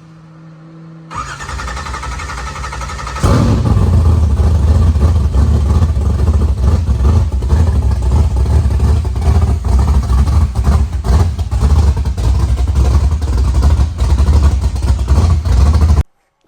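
A COPO Camaro's 572 cubic-inch big-block V8 is cranked over by its starter for about two seconds, then fires and runs at a loud, lumpy idle with a heavy low rumble. The sound cuts off suddenly near the end.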